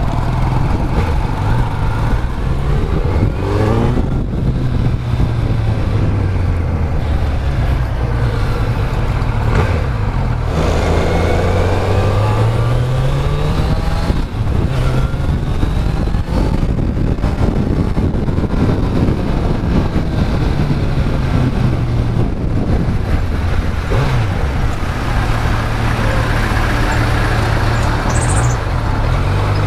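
Kawasaki Z900 inline-four engine running while ridden, its pitch rising and falling as the throttle opens and closes, with a steady noise of wind and road underneath.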